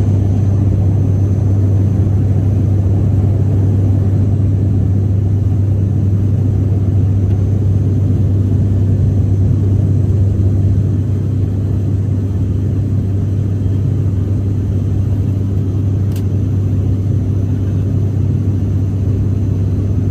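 Steady low drone of an ATR 42-600's two turboprop engines and propellers, heard inside the cabin in flight. It eases slightly in level about eleven seconds in.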